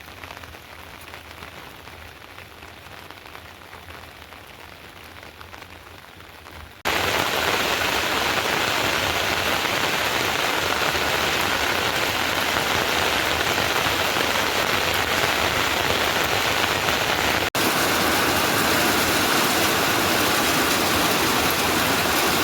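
Steady rain falling; about seven seconds in it jumps abruptly to a much louder, heavier downpour that stays even to the end.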